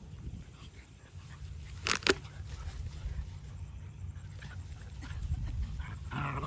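A street dog barking twice in quick succession about two seconds in, the loudest sounds here, with another short dog vocalisation near the end over a low steady rumble.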